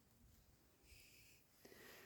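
Near silence: quiet lakeside ambience, with a faint brief hiss about a second in.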